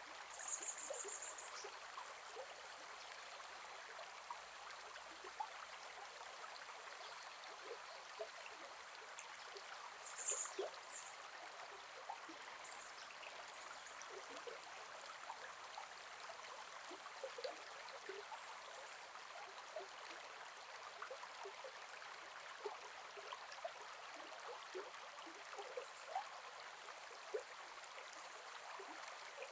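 Gentle forest river flowing: a steady rush of water with small splashes and trickles throughout. A few brief high-pitched sounds stand out about a second in and again around ten seconds in.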